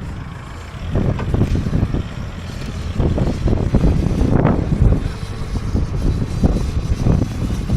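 A car's engine running hard in uneven surges as the car works to get out of deep mud.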